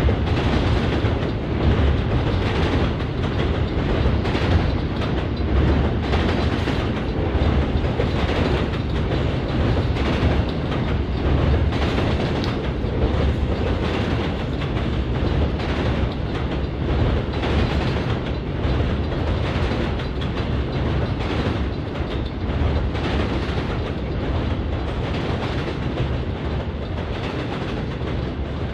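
Norfolk Southern freight train rolling past with a low rumble, its wheels clacking over the rail joints in a steady repeating rhythm. The sound eases a little toward the end.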